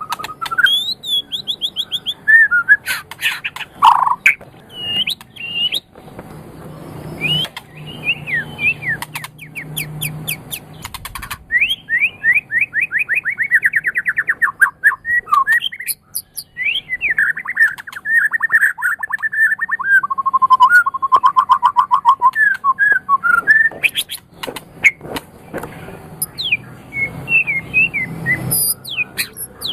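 White-rumped shama singing a long, varied song of whistles, sweeping notes and fast runs of repeated notes, rising and falling in pitch.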